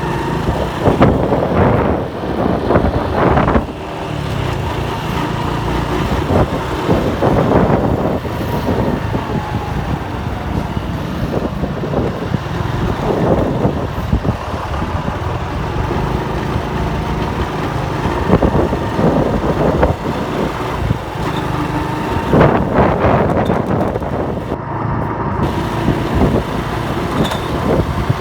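Motorcycle engine running steadily while riding on the road, with wind noise on the microphone rising and falling in gusts.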